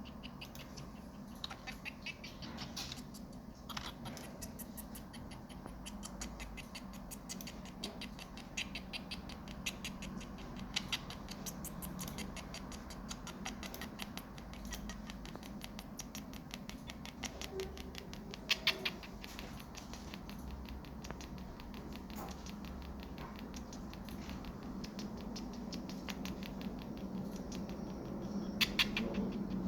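Sony MDR-XB650BT Bluetooth headphones giving out rapid, irregular clicking and crackling over a steady low hum, the stuttering sound of the headphones' audio-looping fault.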